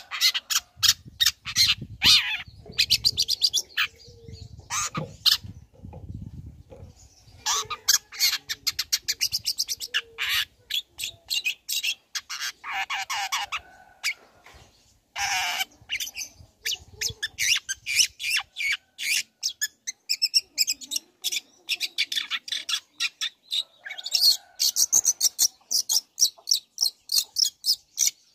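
Long-tailed shrike (cendet) singing a fast, varied song of rapid trains of sharp repeated notes and trills, broken by several short pauses.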